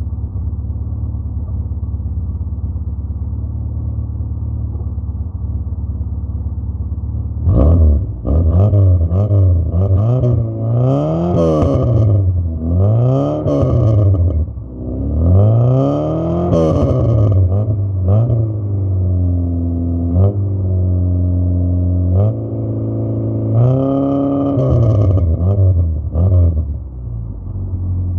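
Fiat Uno engine idling steadily, then from about eight seconds in revved up and let fall back several times, held briefly at a raised speed, revved once more and settling back to idle near the end. It carries the rumble that the owner is asking about.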